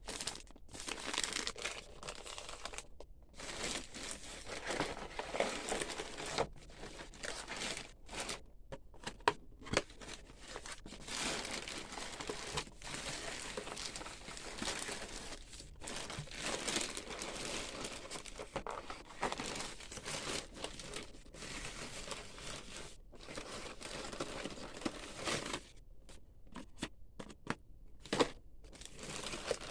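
Packaging being handled and opened: continuous crinkling and rustling with some tearing, broken by a few short pauses.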